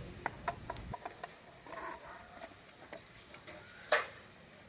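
Scattered light clicks and taps of tools and clutch parts being handled while the clutch set is fitted, with one louder clack about four seconds in.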